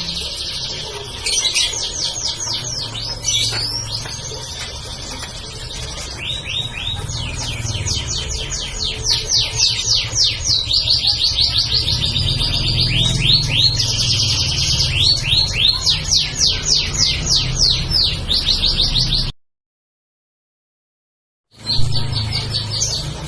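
Domestic canary singing a long continuous song of fast rolling trills and rapid runs of repeated notes. Near the end the sound cuts to dead silence for about two seconds, then the song picks up again.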